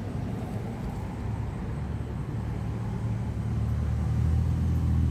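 Deep, steady drone of a large low-flying aircraft's engines heard from indoors through a window screen, swelling louder about three and a half seconds in.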